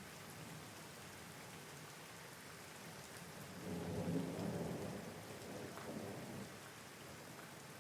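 Steady rain falling, with a roll of thunder that swells up about three and a half seconds in and rumbles away over the next three seconds.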